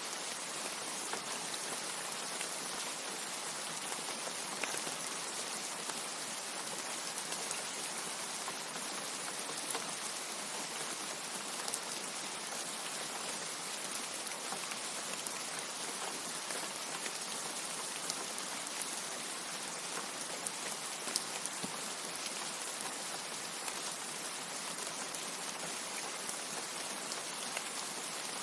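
Steady rain falling: an even hiss throughout, dotted with scattered sharp drop ticks.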